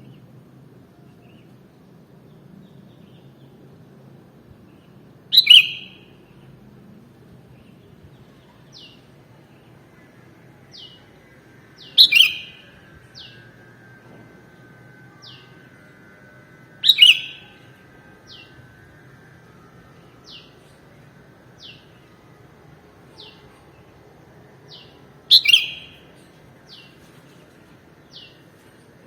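Sooty-headed bulbul calling: four loud short calls several seconds apart, with faint, quick high chirps repeating about every second and a half between them.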